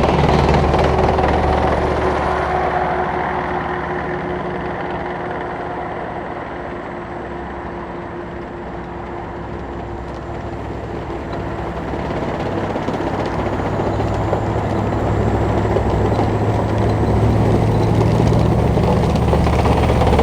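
Tracked military vehicles passing on a road: a Type 10 tank's engine and tracks fade away, then the next tracked vehicle, an armoured recovery vehicle, approaches and grows louder toward the end.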